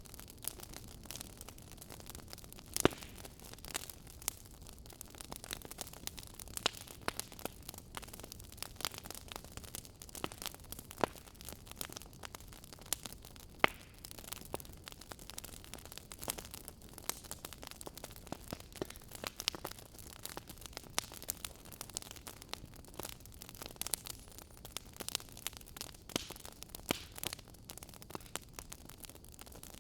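Fire crackling: soft, irregular pops and snaps over a faint steady hiss, a few of them louder, about three seconds in and again near fourteen seconds.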